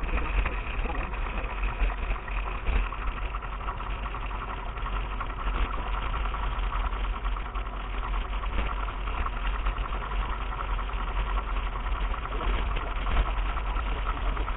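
Steady low rumble and rattling from a mountain bike being ridden over a dirt track, with wind on a budget action camera's microphone.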